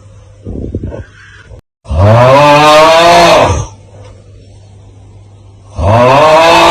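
The looped 'Aauuggh' meme sound: a man's loud, drawn-out groaning yell of about two seconds, rising then falling in pitch with a wavering quaver. A short quieter sound comes before it and a split-second dropout sits at the loop joint, and the next yell starts near the end.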